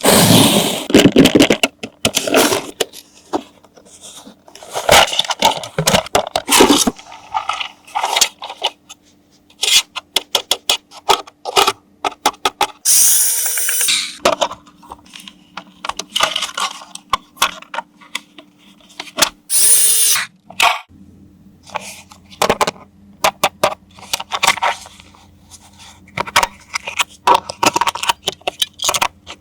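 Handling of plastic toy parts and packaging: a dense run of sharp clicks, taps and short scrapes, with two louder hissing rustles about a third and two-thirds of the way through, over a faint steady hum.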